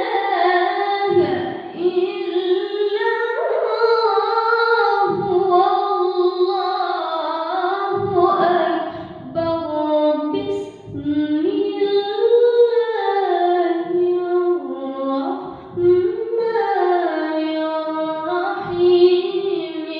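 A boy reciting the Qur'an in the melodic qiro'ah (tilawah) style, unaccompanied. One high voice holds long ornamented notes that waver and glide up and down, with short pauses for breath.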